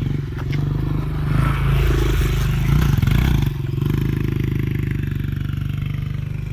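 Small Honda CRF dirt bike's single-cylinder four-stroke engine running, swelling louder with added rushing noise between about a second and a half and three and a half seconds in, then running steadily.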